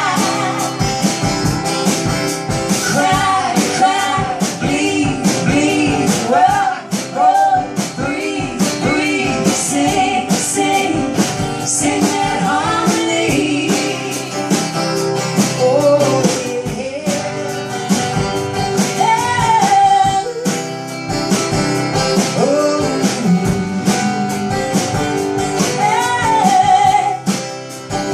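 Live band music: strummed guitar keeping a steady beat under a sung melody line, part of it held with vibrato.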